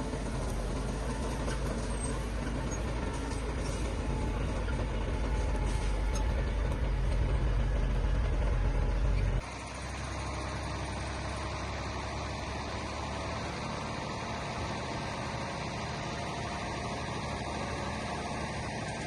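Heavy diesel construction machinery running steadily with strong deep engine sound. About halfway through it cuts off abruptly to a quieter, thinner engine sound that carries on steadily.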